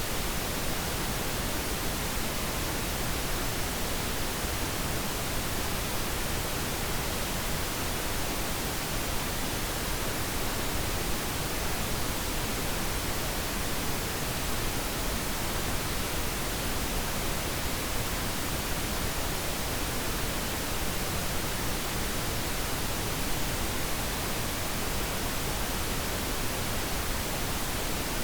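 Steady pink noise, an even, unchanging hiss with no breaks.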